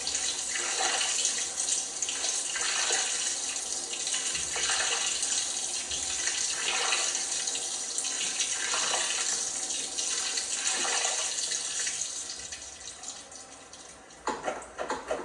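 LG washing machine taking in water: a steady rush and splash that swells about every two seconds. The flow fades away near the end, and a sharper, clattering sound starts about a second before the end.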